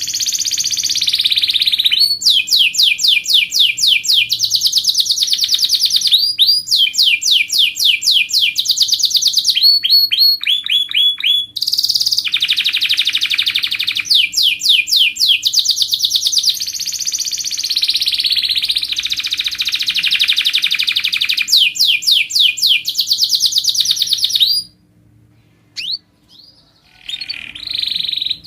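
Domestic canary singing long, fast trills of rapidly repeated high notes, changing to a new roll every few seconds. The song breaks off for about two seconds near the end, then starts again.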